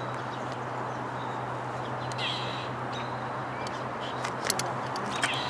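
A bird's harsh call about two seconds in, over a steady low background hum, then a few sharp clicks near the end.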